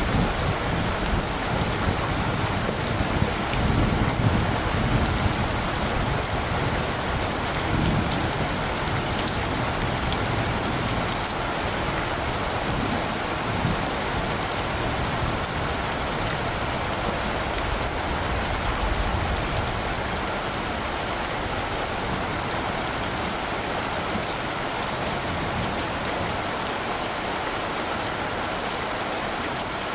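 Steady rain falling, a constant hiss with fine drop sounds. Low rumbles of distant thunder swell about four seconds in, again near eight seconds and faintly near nineteen seconds.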